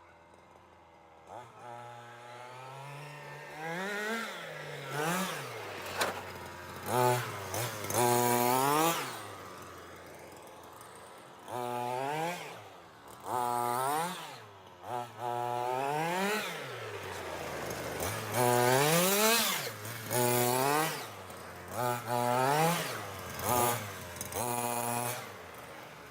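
Small two-stroke petrol engine of a gas-powered FG RC monster truck, revved up and down over and over. The pitch rises and falls with each throttle burst, between quieter stretches at low revs.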